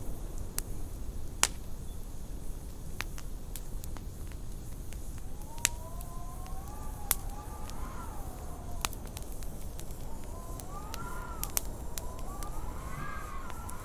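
Wood fire crackling and popping over a steady low rumble, with wind howling in wavering tones that rise and fall, starting about halfway through and growing stronger near the end.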